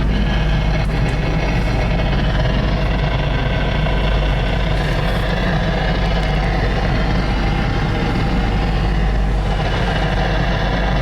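Ford SVT Lightning's supercharged 5.4-litre V8 running at a steady, even pace, with no revving.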